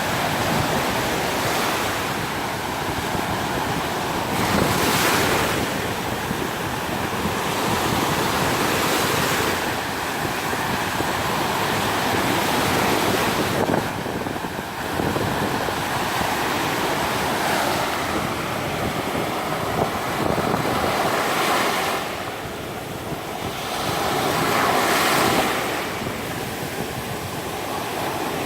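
Black Sea surf breaking on a sandy beach, the wash swelling and easing every few seconds, with wind on the microphone.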